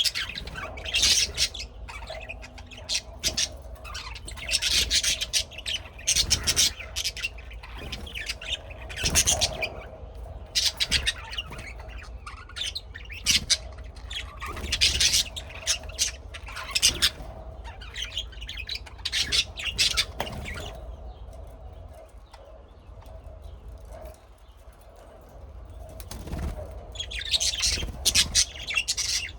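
Birds chirping and squawking in repeated shrill bursts, with a lull about two-thirds of the way through before the calls pick up again near the end.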